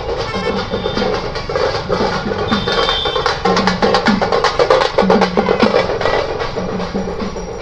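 Temple procession drums and percussion played in a fast, dense rhythm, with sharp wood-block-like strikes.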